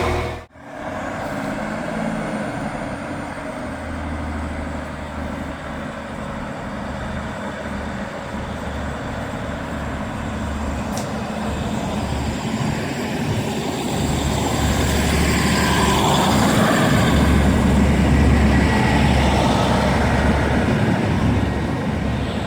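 Class 156 Super Sprinter diesel multiple unit running its diesel engines as it pulls away. The engine noise builds steadily and is loudest about two-thirds of the way through before easing slightly.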